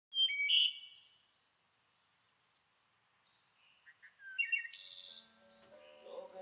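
Songbirds chirping and trilling: a bright burst of calls in the first second, a quiet gap, then another run of calls about four to five seconds in. Soft music comes in near the end.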